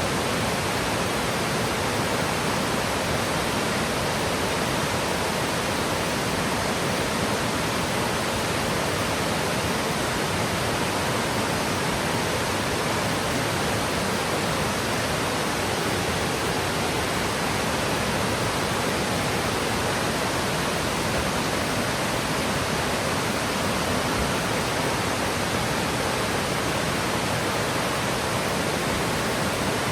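Yudaki waterfall, a broad cascade falling about 70 m down a lava-rock slope: a steady, unbroken rush of falling water.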